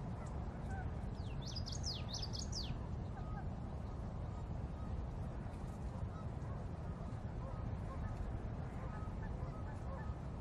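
Steady low outdoor rumble, with a small bird's quick burst of high, steeply falling notes between about one and three seconds in, and faint scattered chirps.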